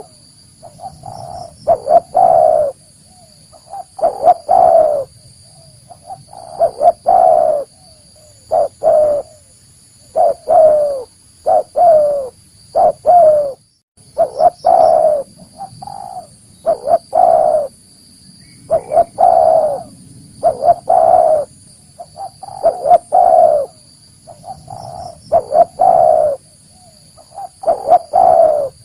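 Spotted dove (tekukur) cooing over and over in groups of two or three loud coos about every two seconds: the bird's advertising call, used as a lure to draw wild doves in for trapping.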